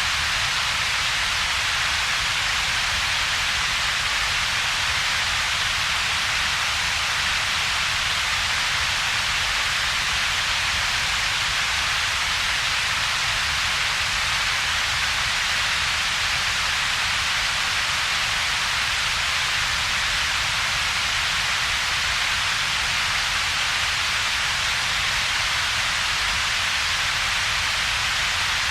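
Steady synthetic noise with two peaks in its spectrum: a hiss strongest around 2 to 4 kHz over a low rumble band, with a gap between them around 300 Hz. It does not change at all.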